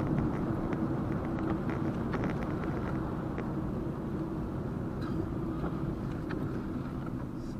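Steady engine and road noise of a moving car, heard from inside the cabin, with a few faint ticks and rattles.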